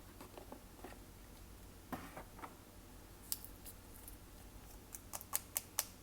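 Slime being handled: a few soft, sticky squishes, then sharp little clicks and pops, with a quick run of four or five near the end.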